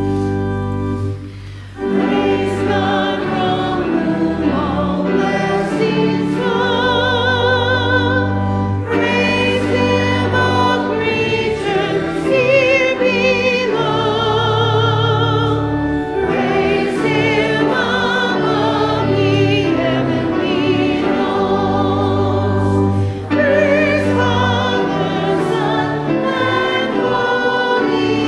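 Adult church choir singing an anthem with organ accompaniment. A held organ chord sounds alone for about the first two seconds, then the voices come in with wide vibrato over sustained low organ notes.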